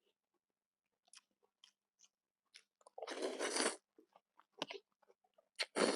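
Close-up eating sounds of a person eating pork noodle soup: soft chewing clicks, then two louder, denser bursts, one about three seconds in and one near the end.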